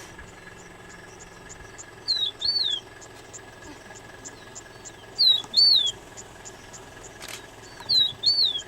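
A small songbird repeating the same short whistled phrase three times, about three seconds apart: a brief high note, then a longer note that swoops up and down.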